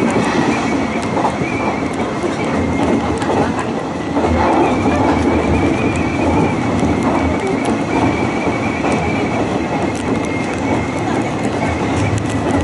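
Hanshin Railway electric train running, heard from inside the car: a steady rumble of wheels on rails with scattered clicks and a faint high whine.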